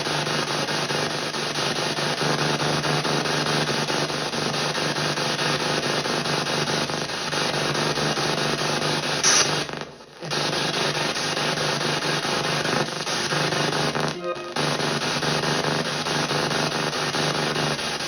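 PSB7 spirit box sweeping radio stations in reverse, played through stereo speakers: a steady hiss of radio static with fleeting snatches of broadcast sound. It cuts out briefly about ten seconds in and again around fourteen seconds.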